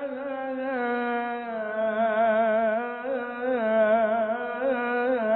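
A solo male Egyptian religious chanter (mubtahil) singing a long wordless melisma, the voice wavering in continuous fast ornaments around the note as he draws out a syllable of the supplication.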